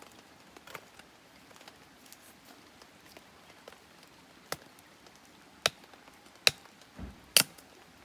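Campfire wood cracking: four sharp pops in the second half, with a dull low knock just before the last and loudest one.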